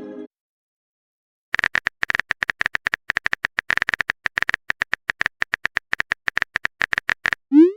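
Phone keyboard typing sound effect: after a short pause, a fast run of sharp clicks lasting about six seconds, then near the end a quick rising swoosh of a text message being sent.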